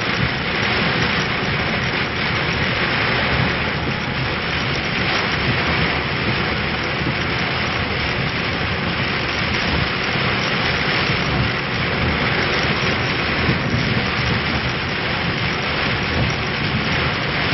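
Heavy rain falling on a vehicle's roof and windows, heard from inside: a loud, steady, dense noise with no let-up.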